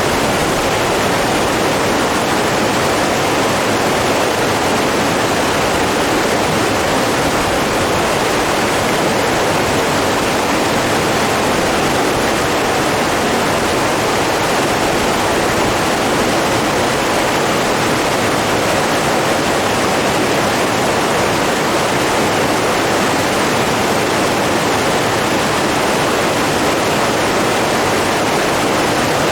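Steady, unbroken rush of fast-flowing water, like a stream or small waterfall.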